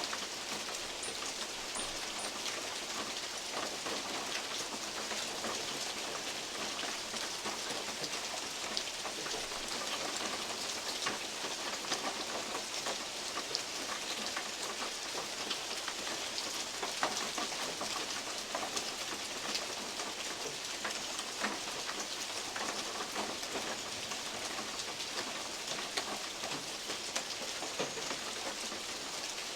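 Steady rain with big drops falling from oak leaves onto a metal roof, many separate sharp drop ticks over an even hiss of rainfall.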